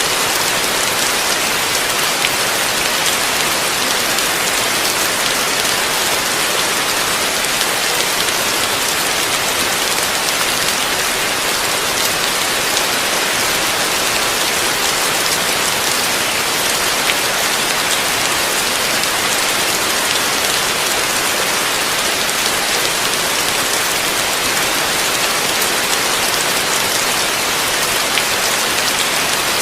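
Heavy rain falling steadily, with a constant hiss and many individual drops spattering on a surface.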